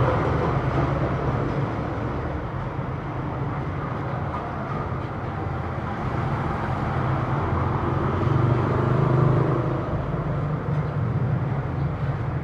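Road traffic passing: a steady rumble of vehicle engines and tyres that swells louder about eight seconds in as a vehicle goes by.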